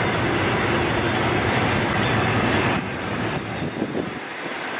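Passenger coaches rolling slowly past close by, their wheels rumbling on the rails. The noise drops a little about three seconds in, with a few short clacks after.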